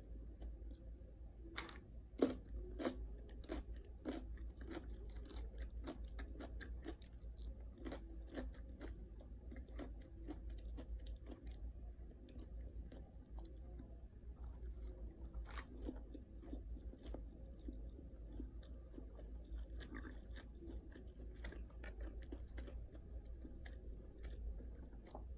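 A person chewing and biting food close to the mic, with many irregular crisp crunches; the sharpest bites come a couple of seconds in.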